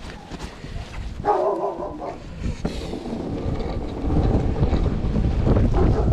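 Blizzard wind buffeting the microphone as a low rumble, growing louder from about four seconds in. About a second in comes a short pitched sound lasting under a second.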